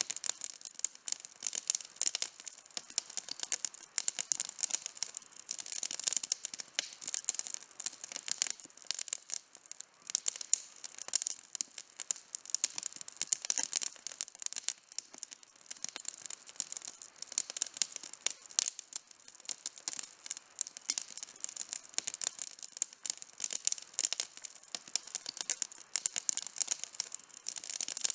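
Campfire burning outdoors, wood crackling with many small, quick pops over a soft hiss.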